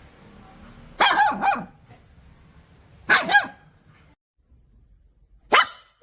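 Puppy barking: a double bark about a second in, another pair around three seconds, and a single short, sharp bark near the end.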